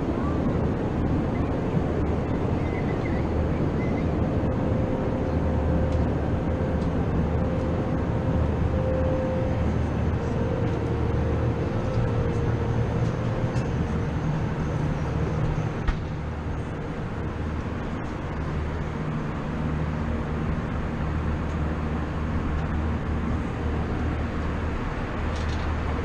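Steady cabin noise inside a JetBlue Airbus A320: engine drone and airflow with a low hum. The level drops slightly about two thirds of the way through.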